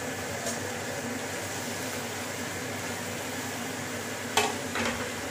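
Capsicum and paneer cubes sizzling in butter and oil in a steel wok over a high gas flame, a steady hiss. A sharp knock sounds about four seconds in, with a fainter one just after.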